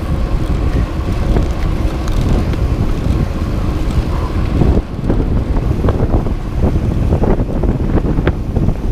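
Wind buffeting the microphone: a loud, steady low rumble with scattered crackles.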